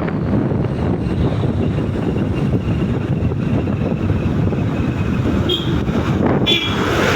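Steady wind rumbling on the microphone, with a couple of short high-pitched sounds near the end.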